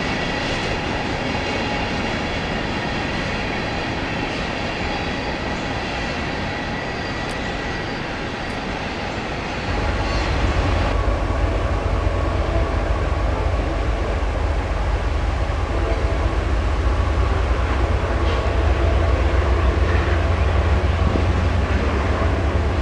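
A freight train of covered hoppers rolling past, steel wheels on rail with a thin steady squeal. About ten seconds in it changes to a loaded coal train going by with a heavy, steady low rumble.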